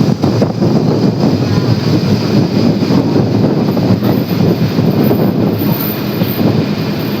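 Steady rumbling noise of a moving vehicle, with wind buffeting the microphone.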